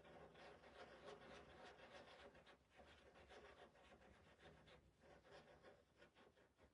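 Faint, quick irregular strokes of a stencil brush working paint onto the surface.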